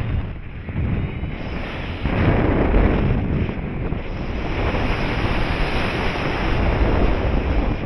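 Wind rushing over the microphone as the paraglider flies. It is loud and gusty, swelling about two seconds in and again in the second half.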